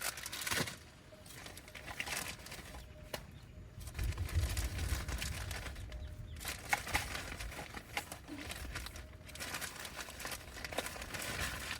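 Rustling and crinkling with scattered light clicks and knocks as food, packaging and utensils are handled to start cooking, with a low rumble about four seconds in.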